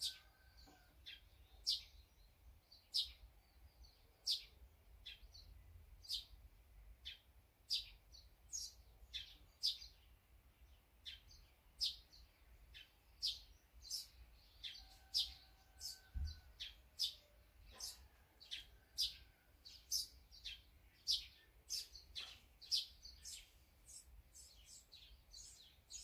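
Small songbirds chirping, many short high chirps one after another, about one or two a second, over a faint low rumble. A single low thump sounds a little past the middle.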